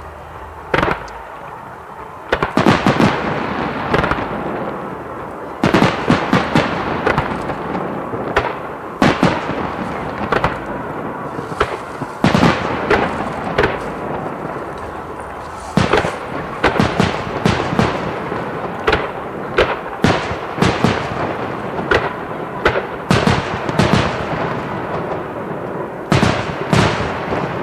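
Star mine fireworks barrage: many shells bursting in quick succession, sharp bangs coming in dense volleys over a continuous crackling rumble, with two short lulls between volleys.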